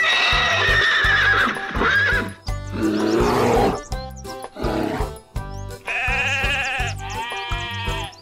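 Several different animal calls in quick succession over background music.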